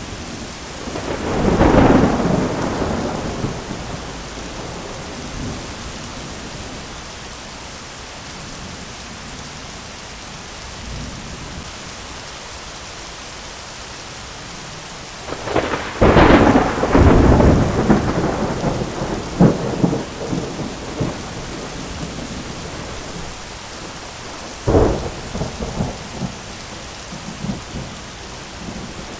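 Thunderstorm: steady rain hiss throughout, with a rumble of thunder swelling about two seconds in, a sharp thunderclap about halfway through that rolls on for several seconds, and another sharp crack near the end.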